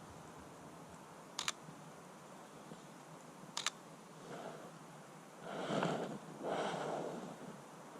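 Canon EOS R shutter firing twice, two sharp clicks about two seconds apart, followed by two louder noisy swishes about a second apart in the second half.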